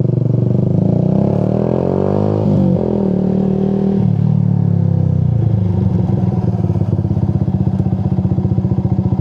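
Motorcycle engine pulling uphill, its revs rising for the first couple of seconds, then shifting abruptly about three seconds in. After about four seconds it eases off to a steady, low, pulsing run.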